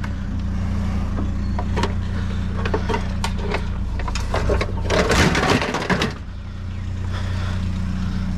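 Junk being handled and shifted in a dumpster: scattered knocks and clatters, with a louder burst of rustling and clattering about five seconds in. A steady low engine hum from an idling vehicle runs underneath.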